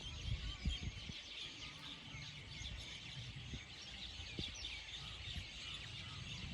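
A chorus of small birds chirping: many short, high 'keech' chirps overlapping without a break, over a low rumble.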